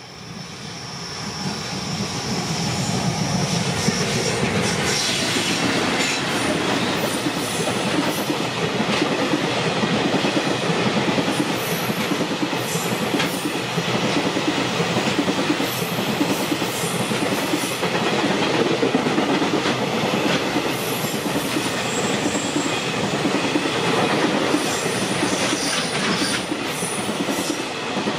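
Container freight train rolling past, its wagon wheels clattering in a steady clickety-clack over the rail joints, with occasional high squeaks. The sound swells over the first few seconds as the train arrives, then holds steady while the wagons keep going by.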